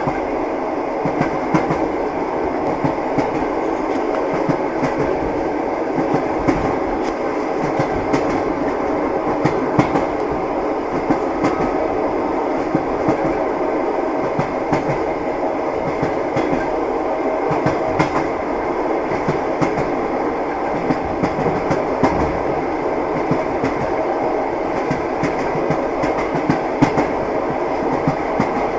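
Train wheels clicking over rail joints above a steady rolling rumble of the moving train.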